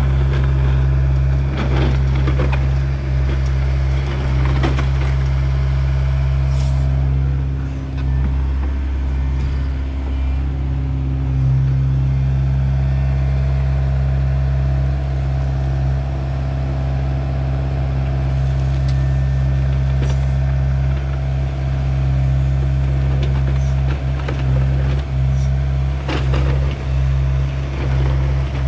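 SANY SY60C mini excavator's diesel engine running steadily under working load, with a higher steady tone joining about seven seconds in and occasional knocks from the digging work.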